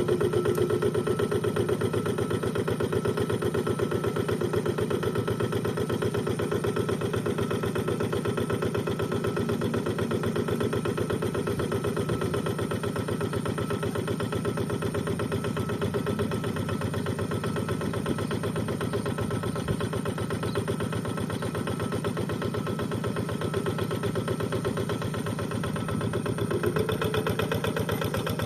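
Rice-field tractor engine running steadily with an even, pulsing beat, its pitch rising slightly near the end.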